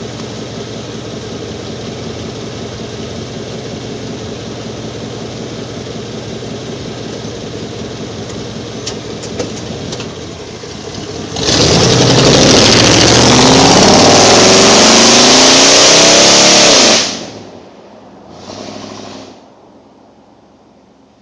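A 1994 Chevy 1500's 350 V8 through 2 1/4-inch straight pipes with pencil tips, idling steadily. About halfway through it is revved hard, climbing and held high for about five seconds and very loud, then drops back suddenly. A short blip of the throttle follows, and the sound is low and faint near the end.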